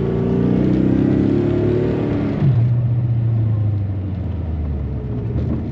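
1986 Chevrolet Corvette C4's V8 pulling under acceleration, heard from inside the cabin, its pitch climbing gently, then dropping abruptly about two and a half seconds in at an upshift and settling into a steady lower drone as it cruises.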